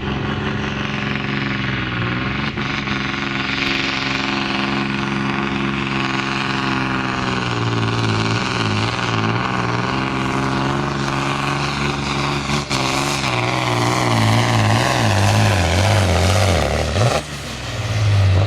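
Truck-pulling truck's diesel engine running hard under load at a steady pitch, getting louder in the second half, with a brief dip about 17 seconds in before it picks up again.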